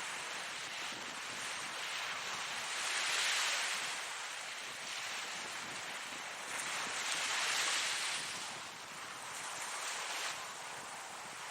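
Ocean surf: waves breaking and washing ashore as a steady rushing hiss that swells twice, once about three seconds in and again past the middle.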